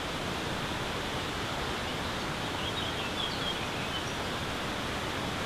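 Steady rush of water from a waterfall, with a few faint high chirps about three seconds in.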